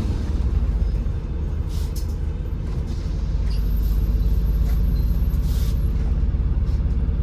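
MAZ-203 city bus engine running steadily, heard from inside the cabin, with short hisses of compressed air from the bus's air system about two seconds in and again near six seconds.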